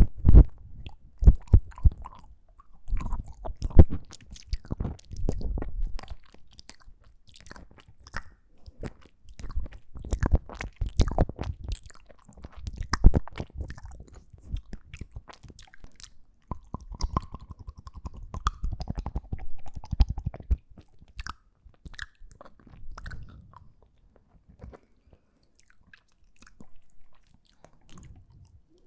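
Close-miked ASMR mouth sounds: wet clicks and smacks coming in irregular bursts, with short pauses between them.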